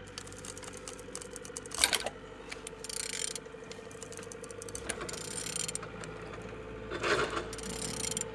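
A removed engine being turned over by hand, giving short bursts of mechanical clicking and rattling, with a steady hum underneath. The engine turns freely.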